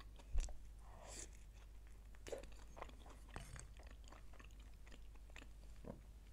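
Close-up chewing and biting of food: soft wet mouth clicks and a few brief crunches. A soft low knock comes about half a second in.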